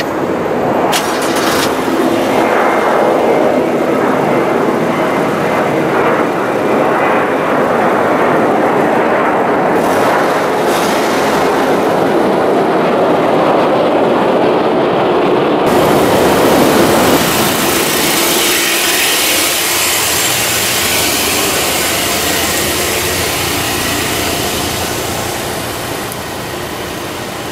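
2012 Subaru Legacy's 2.5-litre flat-four engine and exhaust running, a loud steady noise. About 16 seconds in it turns hissier, then eases off gradually near the end.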